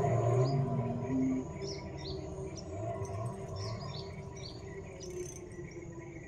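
Small birds chirping, short calls repeated about twice a second, over a low hum that fades away in the first couple of seconds.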